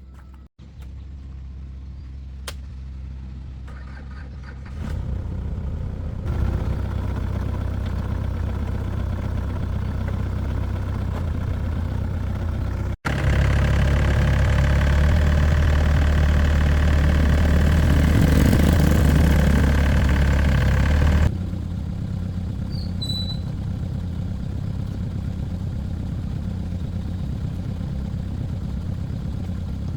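An engine running steadily, louder for a stretch in the middle, with several abrupt changes where the sound is cut.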